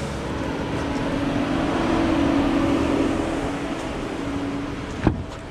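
Steady hiss of rain falling, with a vehicle engine running underneath and a single sharp click near the end.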